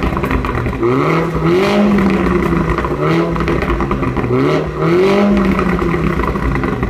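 MINI John Cooper Works four-cylinder turbo engine revved several times through its sport exhaust in its loudest mode, the pitch rising and dropping with each blip, with a crackle through it.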